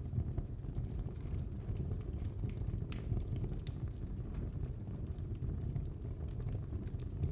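Wood fire burning in a fireplace: a steady low rumble of the flames with scattered sharp crackles and pops of burning logs.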